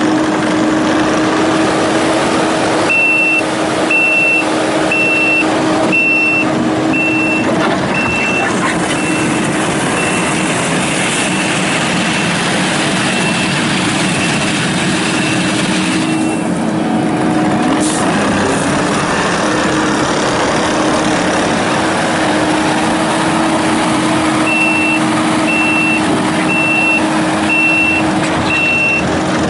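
Kubota SVL95-2S compact track loader's diesel engine running steadily under load, with its backup alarm beeping about once a second while the machine reverses, twice in the span: from a few seconds in, fading out around the middle, and again near the end.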